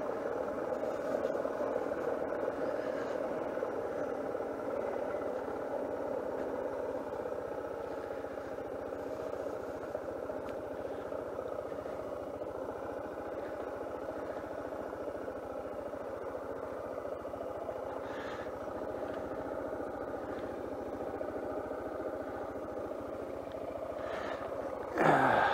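Suzuki DR650 single-cylinder engine running steadily at low speed while the bike rolls along a dirt track, heard from a helmet camera. A short, louder rising burst comes near the end.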